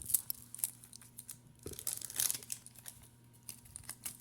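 A paper sticker being peeled and handled against an album's pages: scattered crackles, crinkles and small ticks of paper and plastic.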